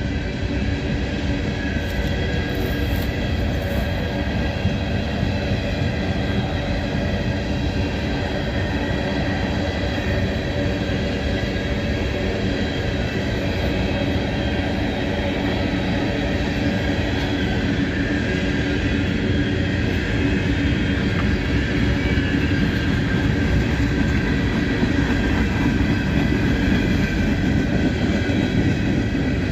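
Cars of a CSX coal train rolling steadily past: a continuous rumble of wheels on rail with faint steady ringing tones above it, growing a little louder near the end.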